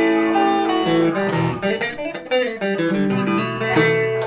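Electric guitar, a Telecaster played through a Roland JC-120 amp, picking a blues instrumental passage of held notes and short runs, with several notes ringing together.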